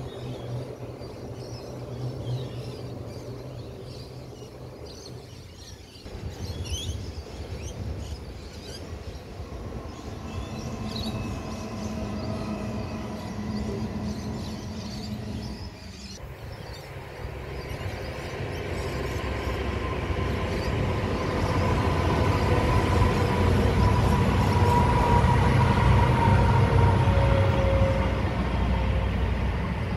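A train approaching and running past, a low rumble with a steady whine, growing louder through the second half.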